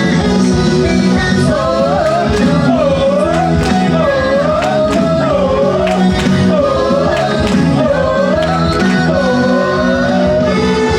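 Live pop music: a high voice sings a long, wavering melody line with wide swoops of pitch over backing chords and a steady percussive beat.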